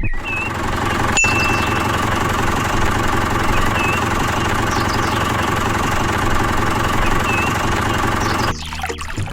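Small engine of a miniature DIY tractor water pump running steadily at a fast, even beat, cutting off abruptly about eight and a half seconds in.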